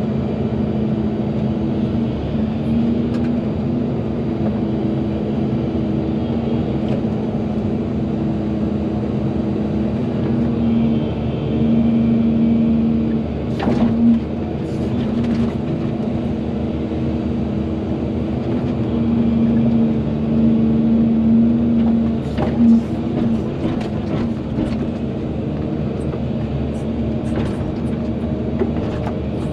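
Volvo EC220DL excavator's diesel engine running steadily, louder twice for a few seconds as it works under load, with a few short knocks from the machine at work.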